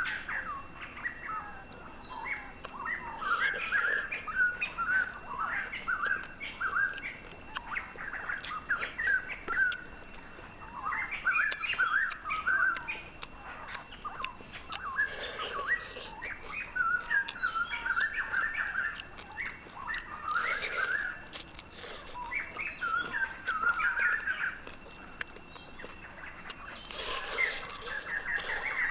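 Small birds chirping in quick runs of short calls, with a few brief crackles every several seconds as crisp fried fish is torn and bitten.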